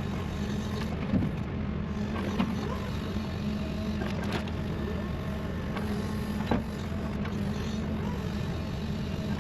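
Heavy diesel equipment engine running steadily, with three sharp knocks about one, two and a half and six and a half seconds in.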